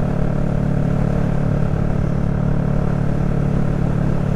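Honda Rebel 500's water-cooled parallel-twin engine, fitted with an aftermarket exhaust, running at a steady cruise with no change in pitch, heard from the rider's seat.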